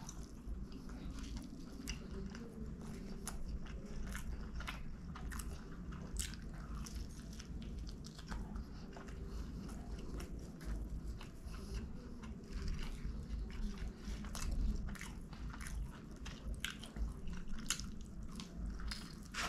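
Close-miked chewing and crunching of a Pizza Hut Melt, a crisp folded thin crust filled with cheese and chicken. Irregular crisp crunches run over steady wet mouth sounds, with a fresh bite near the end.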